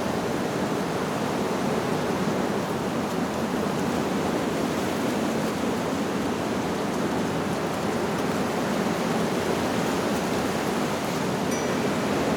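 Steady rushing of wind blowing through leaves, an even unbroken noise, with a faint high wind-chime tinkle near the end.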